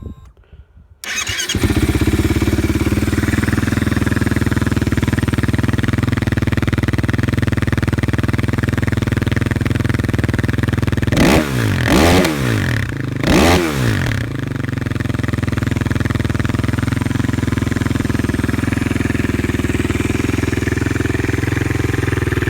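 2009 Kawasaki KFX 450R quad's single-cylinder four-stroke engine, breathing through an FMF full exhaust, starts up about a second in and idles steadily. Around the middle it is blipped twice, the revs rising and falling each time, then it settles back to idle.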